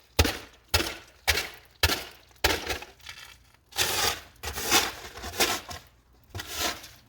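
Snow shovel chopping into snow in sharp strikes about two a second, then a few longer scraping shoves as the snow is pushed and lifted.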